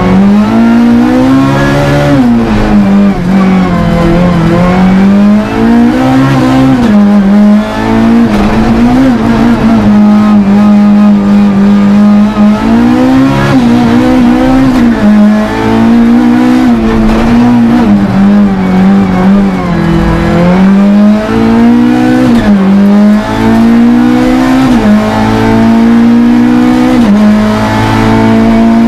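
Four-cylinder rally car engine heard from inside the cabin, under hard driving: the revs rise and drop every few seconds through gear changes and corners, and near the end they climb steadily on a long pull.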